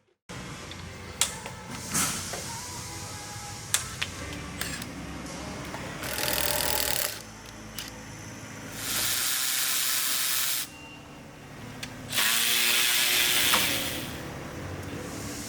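Tool work on a truck: scattered clicks and knocks of hand tools, and a power tool that runs in three short bursts of a second or so each.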